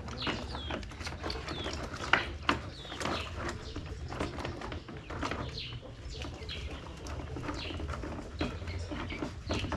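Chickens clucking and chirping in short calls, with two sharp knocks about two seconds in.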